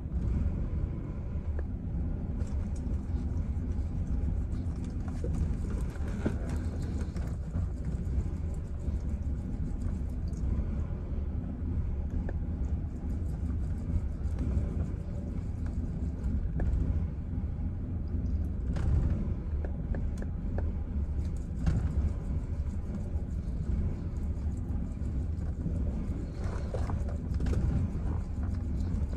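Chevrolet Silverado pickup engine idling very roughly: a steady low rumble with an uneven, stumbling beat.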